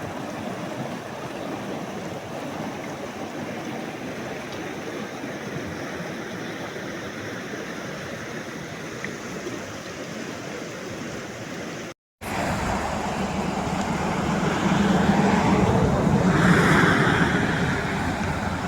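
Mountain river rushing steadily. After a brief cut about two-thirds of the way in, the rush is louder and swells for a few seconds before easing.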